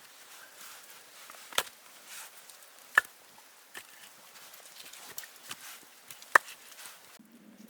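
Sharp knocks: three loud ones about a second and a half to three seconds apart, among softer ticks and light rustling.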